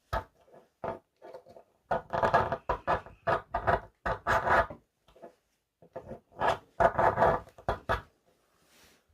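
Steel scraper drawn in repeated rasping strokes along a Kiyano ferrocerium fire-steel rod, in clusters of quick strokes with short pauses between them.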